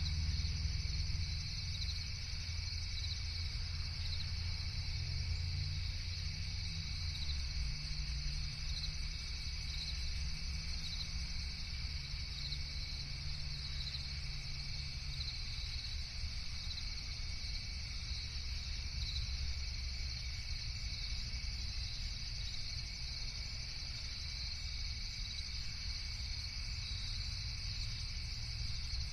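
Night-time chorus of crickets trilling steadily and without a break, over a low, even rumble.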